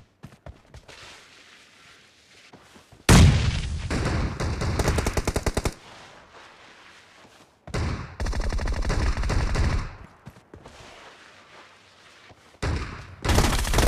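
Automatic gunfire in a first-person shooter video game: three long bursts of rapid fire, the first starting about three seconds in and the last carrying on at the end, with quiet gaps between them.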